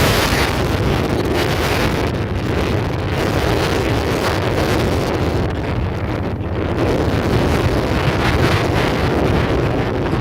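Wind rushing over the microphone on a moving motorcycle, a steady loud roar with a low rumble underneath.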